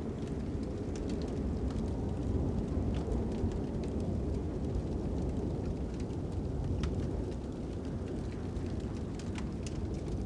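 Fire crackling with scattered sharp pops over a steady low rumble of wind.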